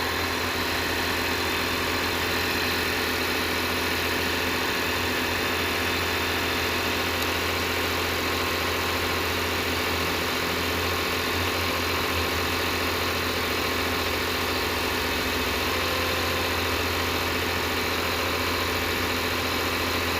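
Freshly installed replacement engine in a Lexus 250 idling steadily on its first run after the engine swap.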